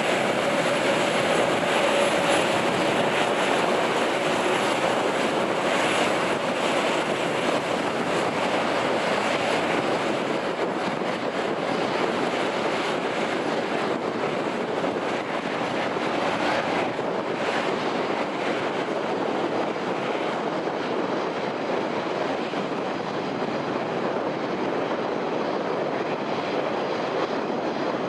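Jet aircraft engines running in a steady loud rush, with a faint high whine that fades over the first half.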